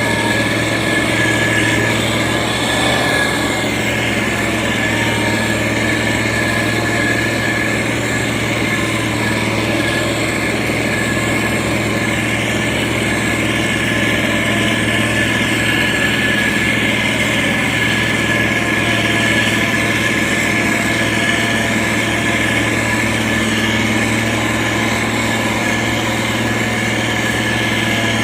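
Diesel engine of heavy road-construction machinery running steadily at an even pitch, a low hum with a steady higher whine above it.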